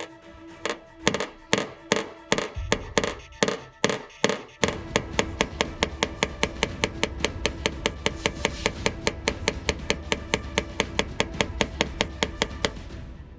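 Rapid repeated light tapping over a steady held tone. The taps are uneven for the first few seconds, then become an even run of about seven a second.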